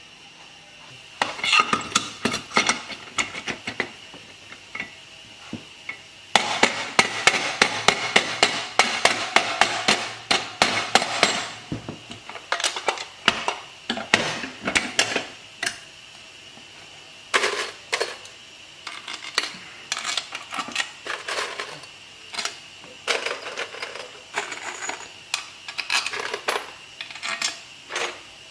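Metal parts of a 70cc motorcycle engine and hand tools clinking and clattering during hand assembly. Scattered sharp clinks give way to a dense run of rapid clattering from about six to eleven seconds in, then scattered clinks again.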